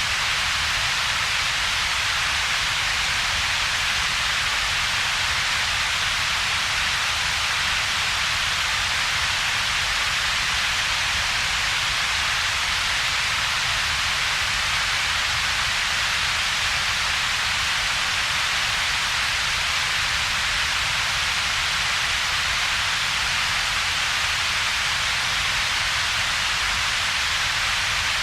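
Steady synthetic double-peaked coloured noise, shaped to two spectral peaks named yellow and ultraviolet: a low rumble below about 150 Hz and a broad hiss centred around 2–4 kHz, with a gap in between. It holds an even level throughout.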